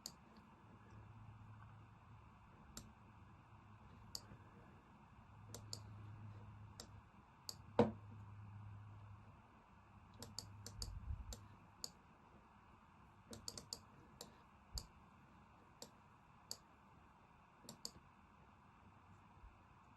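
Scattered clicks of a computer mouse, some in quick pairs and clusters, with a louder knock about eight seconds in, over a faint low hum.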